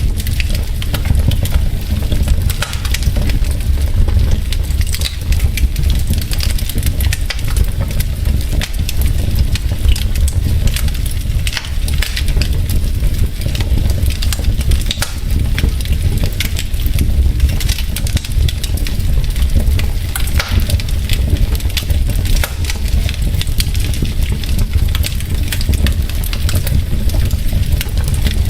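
Wood fire burning in a fireplace: steady crackling and popping of burning logs over a low rumble of flame.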